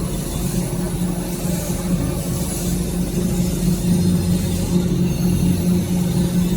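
Steady drone of tissue-paper converting machinery running, a constant low hum with no pauses.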